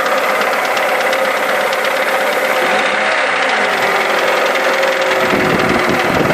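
Honda B20B 2.0-litre inline-four engine of a CR-V running with a rapid, steady clicking chatter from the engine, which persists even though the valves have been adjusted. About five seconds in, a deeper rumble joins the running sound.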